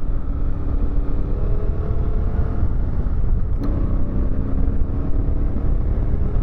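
CFMoto 450MT parallel-twin motorcycle engine running at low speed under a heavy, steady low rumble. About three and a half seconds in there is a short click and the engine's pitch shifts.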